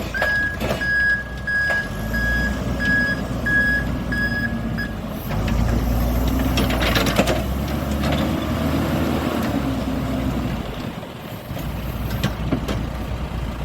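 A tractor backhoe's engine running, with its reversing alarm beeping steadily about twice a second for roughly the first five seconds. The engine then works harder for several seconds, with a few knocks from the machine.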